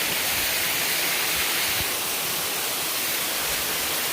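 Waterfall rushing: a steady, dense hiss of falling water.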